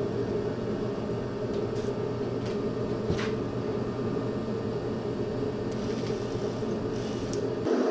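Steady mechanical hum, like a running fan or shop machine, with a few faint light clicks.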